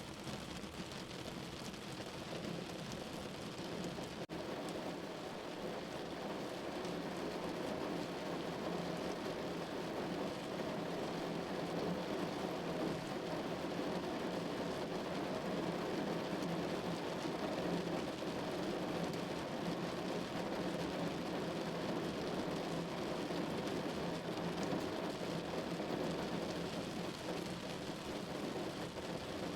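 Steady rain falling, a dense even hiss that builds a little over the first several seconds and then holds.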